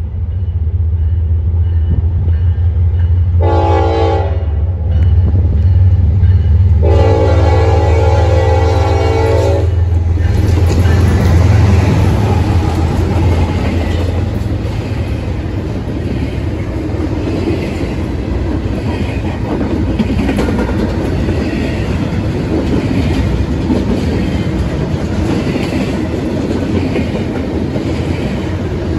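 Diesel freight locomotive sounding its multi-chime air horn, a short blast and then a longer one, the close of a grade-crossing horn signal, over the low rumble of its engine. After that the train rolls past, with steady wheel-on-rail noise and regular clacking over the rail joints.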